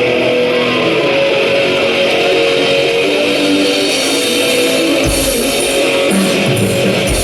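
Live rock band starting a song: electric guitar playing the intro alone, then the drums and bass come in heavily about five seconds in.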